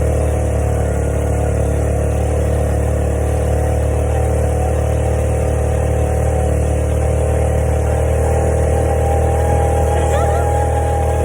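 Small automatic motorbike engine running at a steady speed while being ridden, with a constant low rumble.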